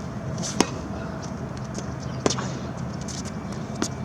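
Tennis rally: a tennis ball knocks sharply three times, about a second and a half apart, off racket strings or the court.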